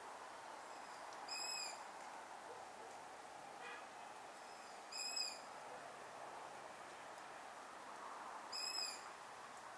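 A bird calling three times with a short, high note, roughly every three and a half seconds, over a steady background hiss.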